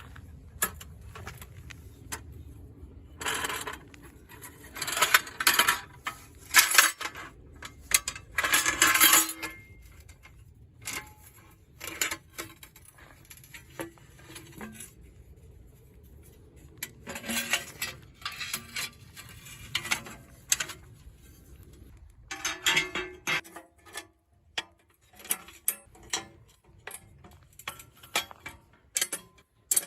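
Wood fire crackling in a homemade fire pit: irregular sharp pops and snaps, with several louder bursts of crackle. A low background rumble stops suddenly about two-thirds of the way through.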